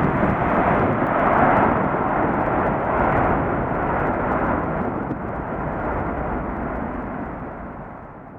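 Landing airliner's engines passing low overhead, a loud rushing roar that peaks early and fades away over the last few seconds.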